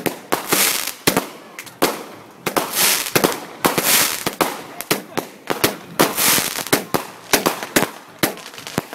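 Fireworks going off in quick succession: repeated hissing launches and sharp bangs and crackles, irregular, about two or three reports a second.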